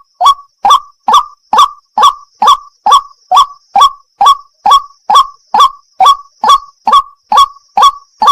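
White-breasted waterhen (burung wak-wak) calling, a steady, even run of short, identical 'kwak' notes, a little over two a second.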